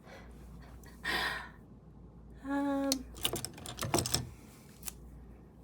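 A breathy exhale about a second in, a short hummed vocal note, then a quick cluster of light taps and clicks.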